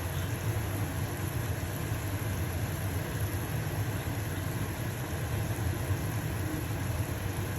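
Stove-top range hood fan running with a steady low hum, over an even hiss of pancake batter sizzling in a frying pan.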